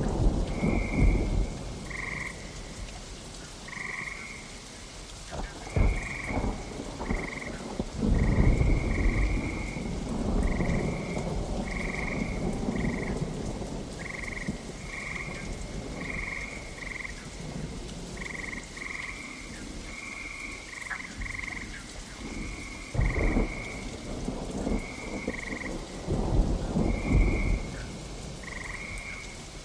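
Steady rain with repeated rumbles of thunder, the longest rolling from about eight to twelve seconds in. Frogs croak over it in short, high calls about once a second.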